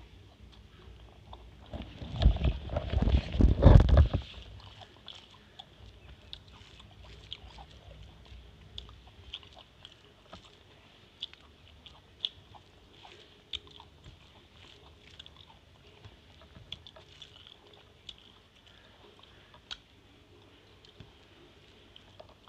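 Close-miked chewing and mouth sounds of a person eating rice and curry by hand. A loud burst of chewing about two seconds in, lasting about two seconds, is followed by quieter scattered wet clicks of chewing and fingers mixing rice on a steel plate.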